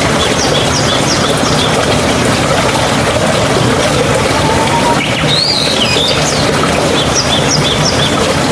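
Steady rush of running water, with birds calling over it. There are quick runs of short high chirps near the start and again near the end, and a longer rising-then-falling call about five seconds in.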